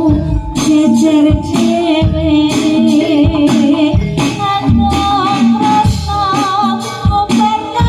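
Jaranan music: a Javanese percussion ensemble with regular drum strokes under held pitched tones, with a wavering sung melody over it.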